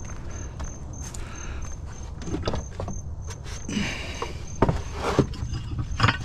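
Scrap items being handled at a curbside pile: knocks, rattles and clanks that come in clusters from about two seconds in, over a steady low rumble. A faint high beep repeats about three times a second throughout.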